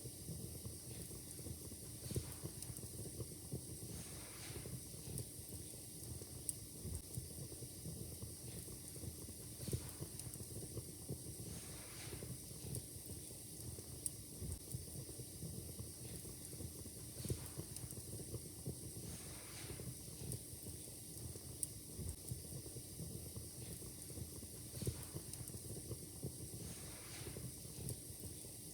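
Wood fire in a fireplace crackling steadily, with irregular small crackles and a few louder sharp pops over a low hiss.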